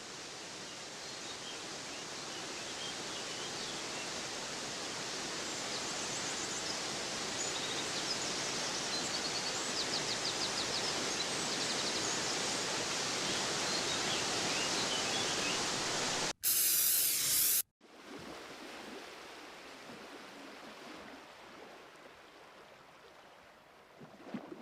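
Steady rush of a waterfall and rapids that slowly grows louder, with faint high chirps in the middle. About two-thirds of the way through, a louder burst of noise lasts just over a second and cuts off abruptly, then a quieter rush fades toward the end.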